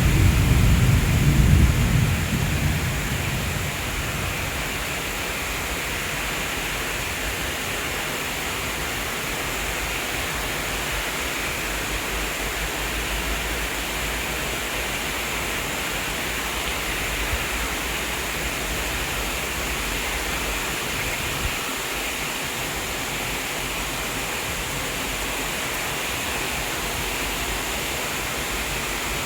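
Rain falling in a steady, even hiss. A low rumble of thunder at the start fades away over the first three seconds.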